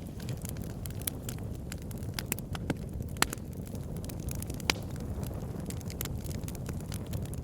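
Wood fire burning in a fireplace: a steady low rumble of flames with frequent sharp crackles and pops, two louder pops near the middle.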